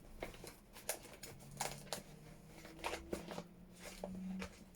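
Paper pages being leafed through and handled: scattered soft rustles and light clicks.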